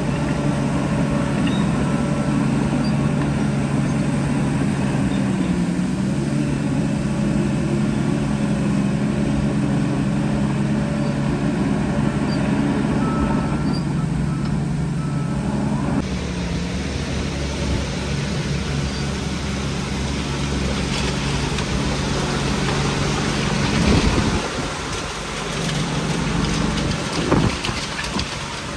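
Heavy diesel construction machinery running steadily under load. About halfway through the sound changes abruptly to a noisier rumble, with a few knocks near the end.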